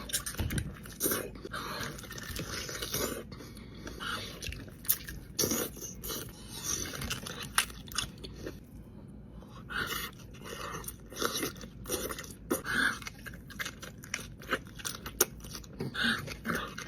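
A person eating close to the microphone: irregular biting and chewing, with many short sharp clicks and crackles.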